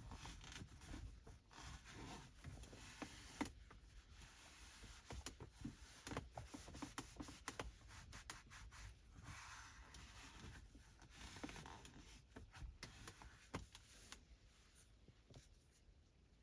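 Faint rubbing and swishing of a microfiber cloth wiping car interior surfaces, with scattered small clicks and taps.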